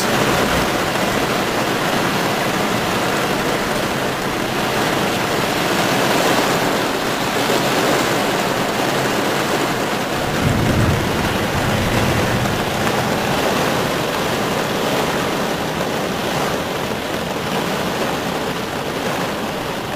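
Heavy rain pouring down on a car, heard from inside the cabin as a steady dense hiss, with a low rumble of thunder about ten seconds in.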